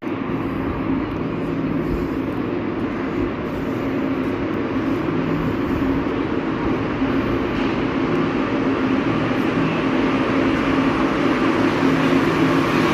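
Santiago Metro NS-16 rubber-tyred train running, a steady rumble with a low hum of its motors, slowly growing louder.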